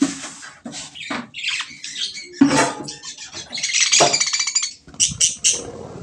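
Small pet parrots chattering, with shrill squawks and chirps in uneven bursts and a dense run of calls about four seconds in.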